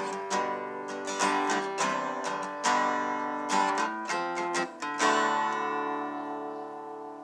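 Acoustic guitar music: a run of picked notes, then a chord about five seconds in that rings and slowly fades.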